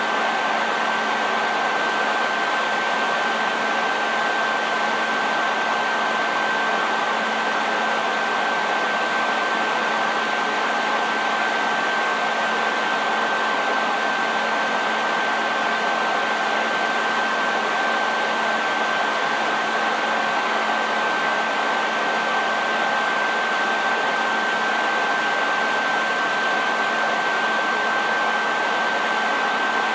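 Hair dryer running continuously at a steady speed: an even rushing of air with a steady high whine of the motor and a faint low hum, unchanging throughout.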